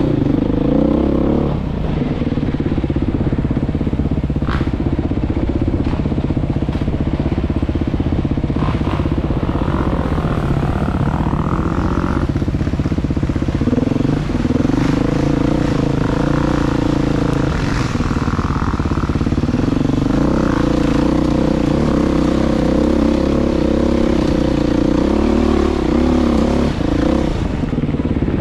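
Engine of a Tornado SingleTrax trail vehicle running continuously, its pitch rising and falling as the throttle changes, with a few short rattles over it.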